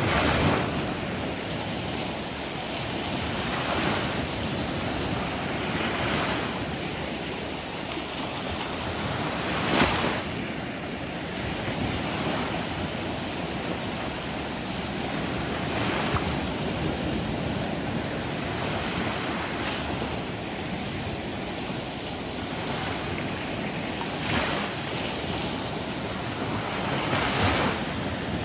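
Sea waves washing in, a steady rush of surf that swells briefly every few seconds.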